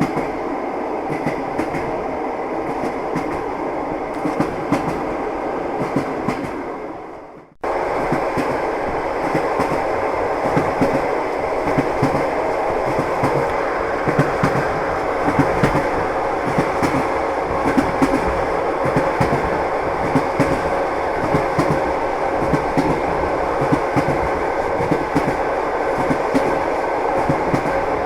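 Train wheels clattering over the rails, a steady rolling rumble with the clickety-clack of wheels crossing rail joints. About seven seconds in it fades away and cuts straight back in at full level.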